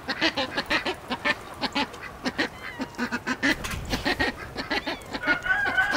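Ducks and chickens calling, a steady run of short quacks and clucks, several a second. About five seconds in, a held high tone begins.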